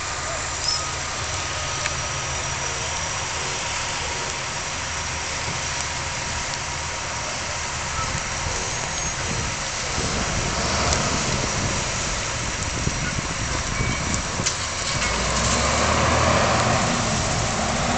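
A vehicle engine running steadily under a constant hiss of noise. The low rumble grows fuller about ten seconds in and again near the end.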